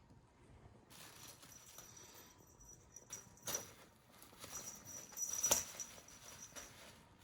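Rustling and scuffling of a cat at play with a toy, with two sharper knocks about three and a half and five and a half seconds in.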